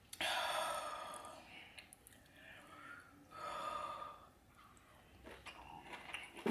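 Two long breathy mouth sounds from the eater while eating seafood boil, each lasting about a second, one at the start and one about halfway. A few faint clicks follow near the end.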